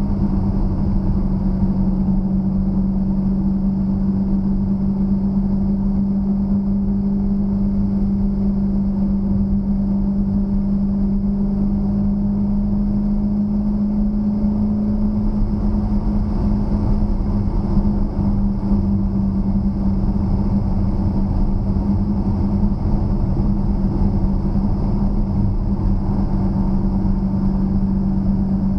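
A 2013 Dodge Challenger SRT8's 6.4-litre HEMI V8 running under steady load while driving, a constant drone that holds one pitch throughout.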